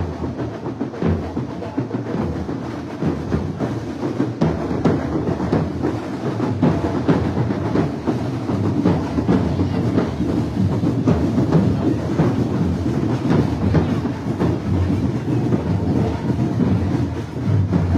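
Parade music led by drums and percussion: a dense, busy beat with many drum strokes over a rumbling low end.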